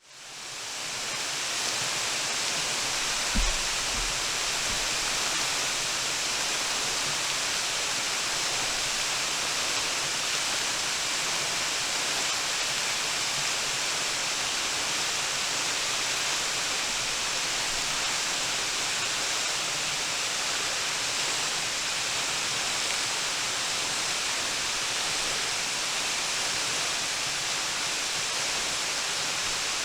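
Waterfall: a steady rush of falling water that fades in over the first second and then holds even. There is a brief low thump about three seconds in.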